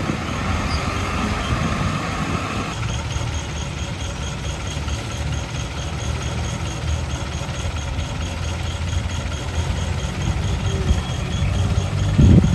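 Heavy earthmoving machine's diesel engine running steadily at low revs. A higher-pitched noise over it stops about three seconds in, and there is a brief louder surge near the end.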